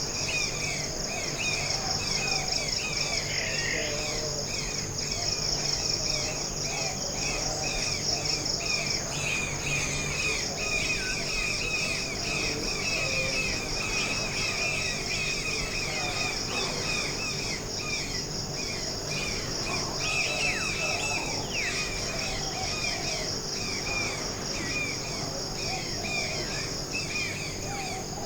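Forest ambience: a steady, high-pitched insect chorus with an even, fast pulse, overlaid by many short, repeated bird chirps and a few lower calls.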